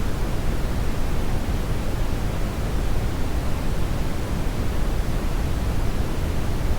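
Hair dryer running steadily: an even, unbroken rush of blown air, heaviest in the low end.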